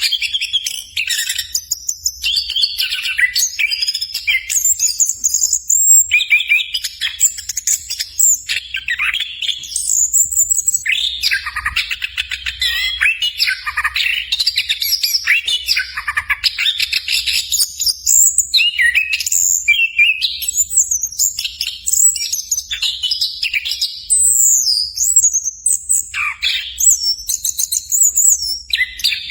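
Chestnut-capped thrush singing a fast, nearly unbroken song of varied high whistles, trills and chattering phrases.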